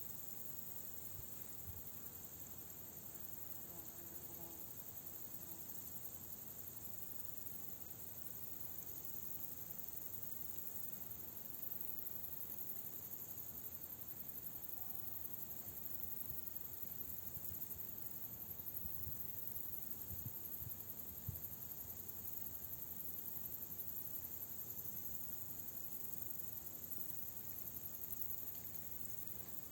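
A steady, high chorus of field insects chirring, with low rumbling gusts of wind on the microphone.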